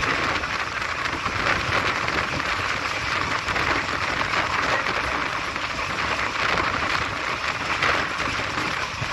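Steady rushing noise of a passenger train running at speed, heard from an open coach door or window: the wind of the train's motion past the microphone mixed with the coach's running noise.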